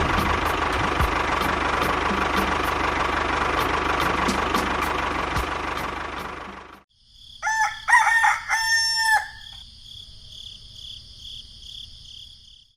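A steady motor drone cuts off abruptly about halfway through. Then a rooster crows once, loudly, with a faint high-pitched pulsing drone behind it.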